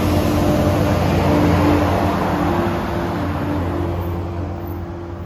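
Passenger train running past: a steady rumble with a low hum, gradually fading over the last couple of seconds as it moves away.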